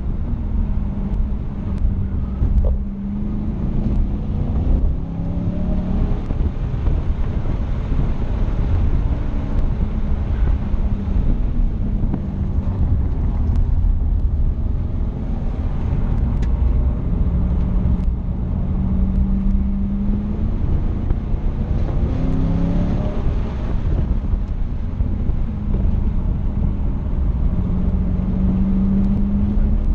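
Chevrolet Camaro Z/28's 7.0-litre V8 heard from inside the cabin at speed on track, its pitch climbing several times under acceleration and dropping back between, over steady road and wind noise.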